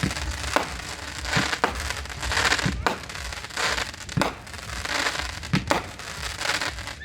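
Fireworks going off: about ten sharp bangs from bursting shells at uneven intervals, with crackling between them.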